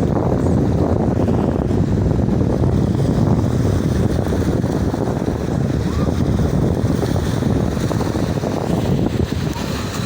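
Sea waves washing in steadily, heavily overlaid by wind buffeting the microphone, which makes a loud, deep rumble.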